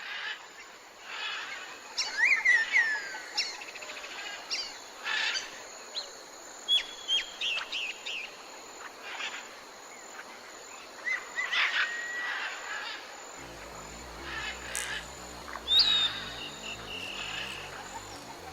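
Several small birds chirping and calling: short whistled notes, quick trills and falling glides over a steady background hiss. A low rumble joins about two-thirds of the way through.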